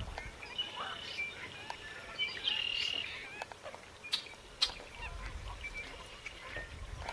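Wild marsh birds calling: a mix of short chirps and calls, with one longer buzzy call about two and a half seconds in and a couple of sharp clicks later.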